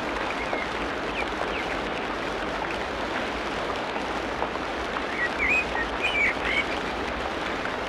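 Tropical rainforest ambience: a steady dense hiss with scattered short bird chirps, the loudest a quick cluster a little past the middle.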